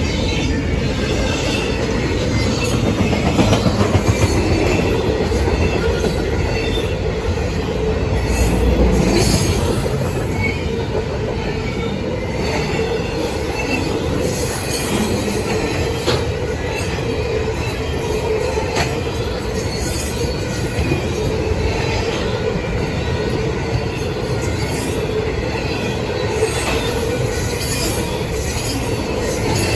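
Double-stack intermodal freight train passing at close range: a steady rumble of the well cars' wheels on the rails, with scattered clicks and brief high wheel squeals.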